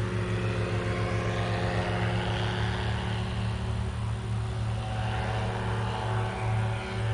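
Propeller aircraft engine running steadily, a low even drone with a slight change in tone about five seconds in.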